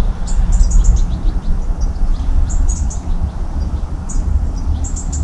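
Small birds chirping: short high chirps in quick clusters, heard throughout, over a steady low rumble.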